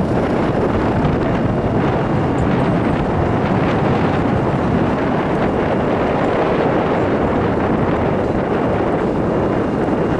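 Gale-force wind buffeting the microphone: a loud, steady rushing noise without pauses.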